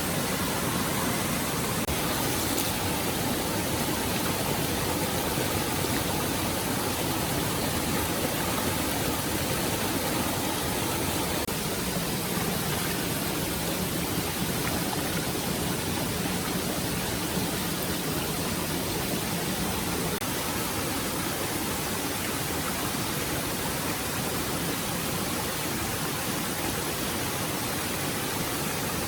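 Stream water running: a steady, even rush of water.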